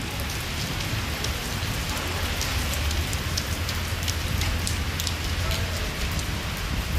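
Torrential monsoon downpour: a steady hiss of heavy rain, with the sharp ticks of large drops striking close by and a low steady rumble underneath.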